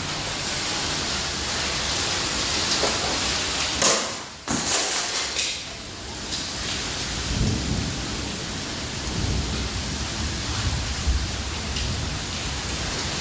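Heavy rain falling hard during a thunderstorm, with thunder rumbling low from about halfway through.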